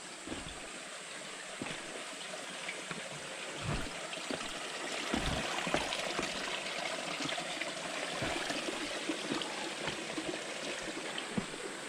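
Running water of a stream, a steady rushing that grows a little louder partway through, with a few short low bumps.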